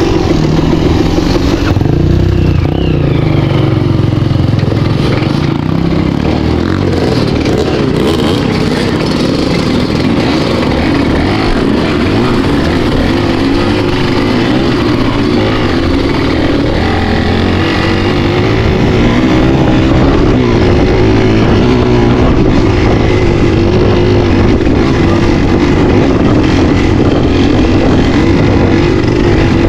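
Vehicle engine running continuously, its pitch rising and falling a little as the throttle changes.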